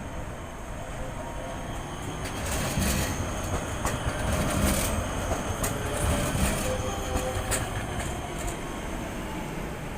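Prague tram passing close by on street track: a steady rumble of steel wheels on rails, with scattered clacks over the track joints and a faint whine.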